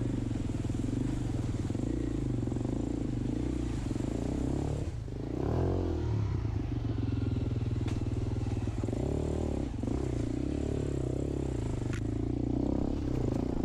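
Dirt bike engine running steadily under throttle, its revs dipping about five seconds in and then rising, with another dip and rise a few seconds later. A couple of faint sharp knocks come through over the engine.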